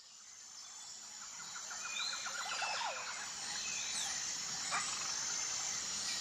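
Nature ambience fading in: a steady high insect drone, like crickets, with scattered short bird chirps and a quick rattling trill about two seconds in.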